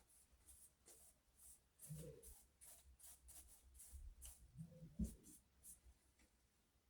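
Faint sketching on paper: a drawing tool scratching in short, irregular strokes, with soft low bumps about two and five seconds in.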